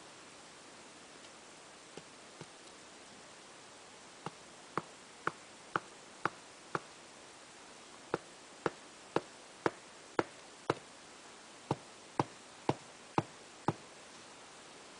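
A tent peg being driven into the ground with a stone: sharp knocks about two a second, in three runs of five or six blows with short pauses between, after a couple of lighter taps.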